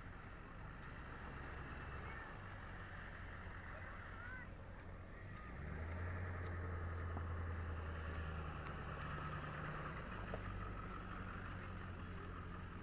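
Boat engine droning steadily, growing louder for a few seconds from about halfway through, over a wash of water and wind noise.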